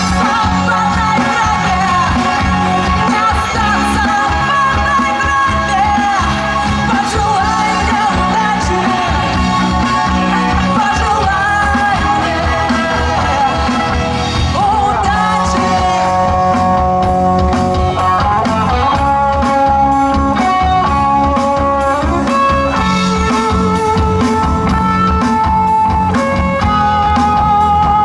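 Live rock band playing: electric guitar lines over bass and drums with a steady beat.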